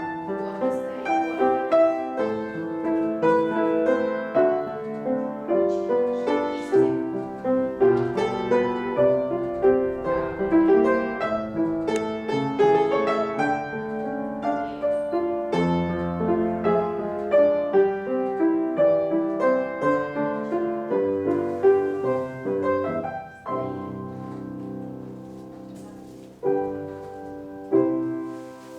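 Piano playing class music for a ballet exercise, a steady flow of notes in a classical style. Near the end the piece closes on a held chord, followed by two final chords.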